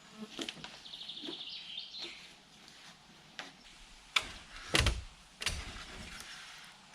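A bird's short trilling chirp, then three sharp knocks roughly half a second apart, the middle one the heaviest.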